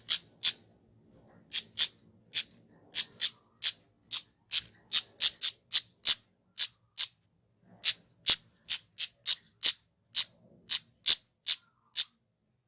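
Kemade flowerpecker giving a quick series of short, sharp, high-pitched calls, about two to three a second, with a short pause a little past the middle.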